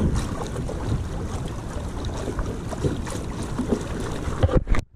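Wind buffeting the microphone on a small fishing boat out on the water, a rough steady rumble with faint knocks; it cuts off suddenly near the end.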